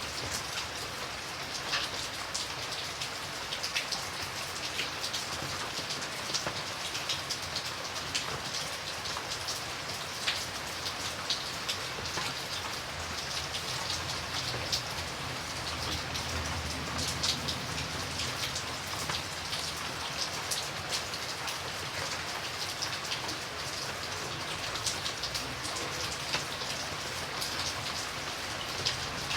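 Steady rain falling, with many distinct drops ticking on a surface over a continuous hiss.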